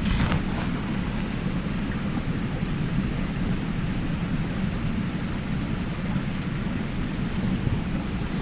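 Mountain stream water rushing steadily, a dense low rumble with a fainter hiss above. There is a brief sharp crackle right at the start.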